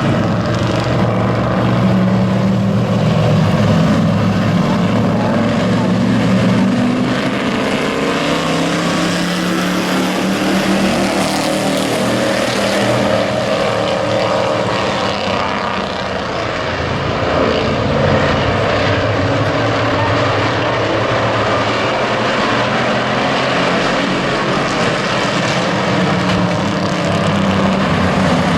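Several race-truck engines running together as the field laps the track: a loud, steady drone of mixed engine pitches that swell and ease as trucks pass.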